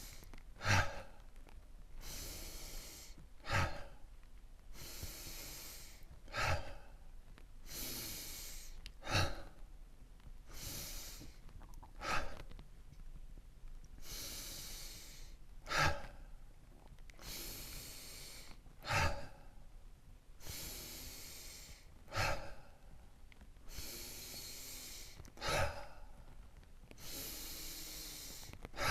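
A person doing sigh breaths in a steady rhythm. Each cycle is a long, hissing inhale followed by a short, forceful, audible sighing exhale, about once every three seconds, some ten times in a row.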